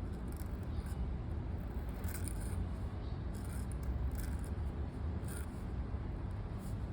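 Scratchy pen writing on paper: short, irregular scratching strokes, over a steady low rumble.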